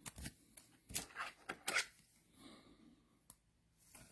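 Trading cards being handled: a few soft clicks and rustles of cards being flipped and sorted, mostly in the first two seconds, with one more click near the end.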